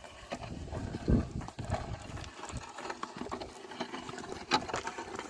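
Oxen at work on a ploughed field: irregular hoof thuds and knocks, with a louder thump about a second in.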